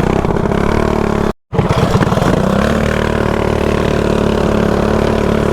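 Mini bike's small single-cylinder engine running under way. The sound drops out completely for a fraction of a second about a second and a half in, then the engine holds a steady pitch.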